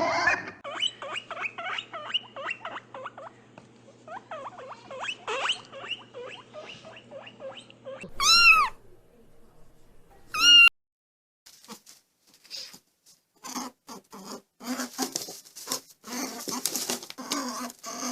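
Cat meowing: many short faint high calls, then two loud high meows that rise and fall, about eight and ten seconds in. Scattered clicks and rustles follow in the later part.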